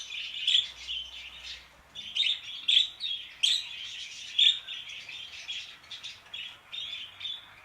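Pet parakeets chirping and chattering continuously, with several louder sharp chirps standing out among them; they are excited by budgie calls. The sound stops abruptly at the end.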